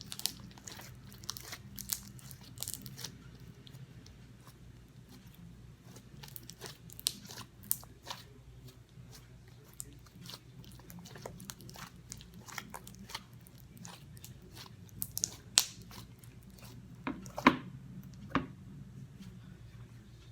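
Homemade clear-glue slime being mixed and worked in a bowl, giving many scattered sticky clicks and crackles, with a steady low hum under it.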